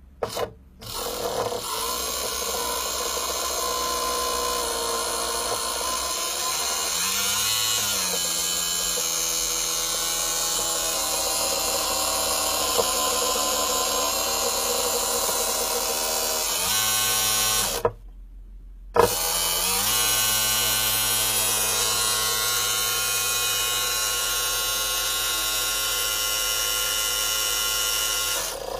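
Small electric hydraulic pump of an RC model truck running with a steady whine, driving a handmade telescopic cylinder. Its pitch briefly rises and falls about a quarter of the way in; just past halfway it stops for about a second, then starts again.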